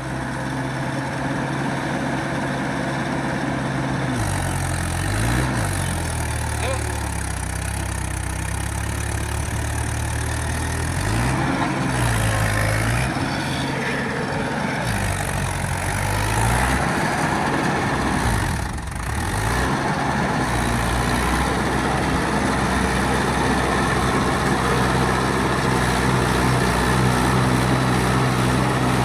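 Mahindra 585 tractor's diesel engine running steadily, its note dipping and picking back up several times as the load or throttle changes.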